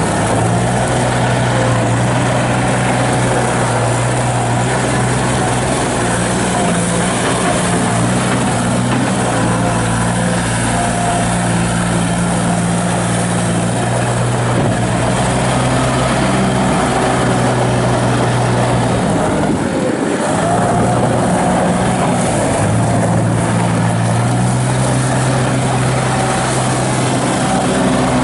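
Gehl 4835 skid steer's three-cylinder turbo diesel engine running steadily at working speed as the machine is driven and operated, with a brief dip in the engine note about two-thirds of the way through.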